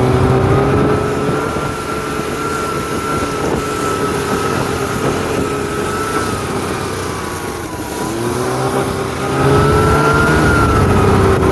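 Snowmobile engine running under throttle with a steady whine. The pitch dips about eight seconds in as the throttle comes off, then climbs again and is louder near the end.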